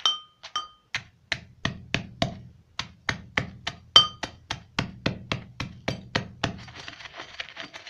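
Steady hand pounding, about three to four strikes a second, crushing calcium material for a bird supplement into small pieces. Some strikes ring with a metallic tone, and the pounding gives way to a softer scraping near the end.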